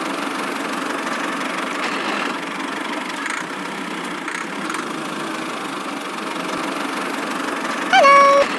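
Steady running of an engine, like a small tractor engine idling, with no change in speed. Near the end comes a short, steady pitched tone.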